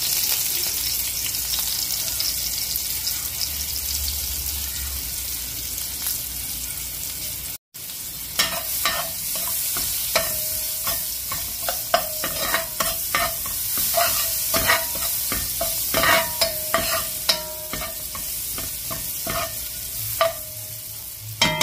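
Onion, garlic and hot peppers sizzling in hot oil with curry powder in a nonstick pan: a steady frying hiss. From about eight seconds in, a spatula stirs them round the pan, adding repeated clicks and short scrapes against the pan over the sizzle.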